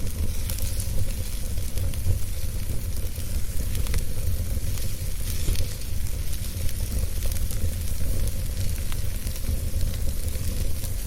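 Wood fire crackling in a fireplace: a steady hiss with scattered small pops over a low rumble.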